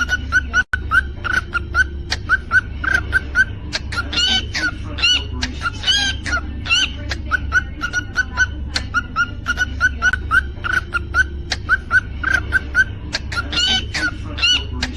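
Cockatiel chirping and whistling: a fast, steady run of short chirps, broken by longer rising whistle notes, over a steady low hum.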